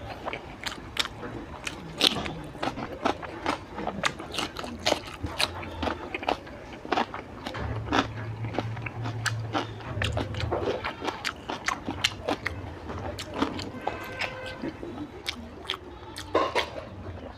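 A person chewing mouthfuls of rice and curry eaten by hand, with wet smacking and a dense, uneven run of sharp mouth clicks.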